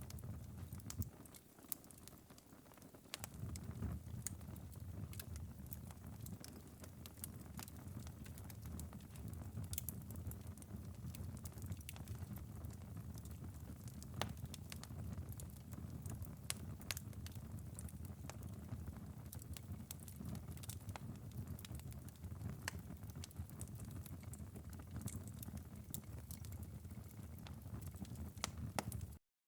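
Wood-fire ember bed in a fireplace crackling: scattered sharp pops and ticks over a low, steady rumble from the burning coals. The sound cuts out abruptly just before the end.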